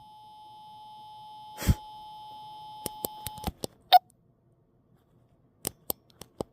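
The chest speaker of a low-battery talking G.I. Joe figure hangs on a steady electronic beep tone for about three and a half seconds. Its sound chip is glitching from the weak batteries. The tone breaks into sharp clicks and a short squawk. After a second of silence comes a string of crackling clicks.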